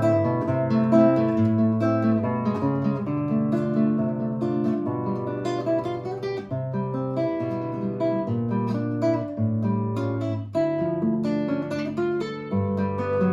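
Russian seven-string acoustic guitar playing a Gypsy folk tune solo, with plucked melody notes and strummed chords over steady bass notes.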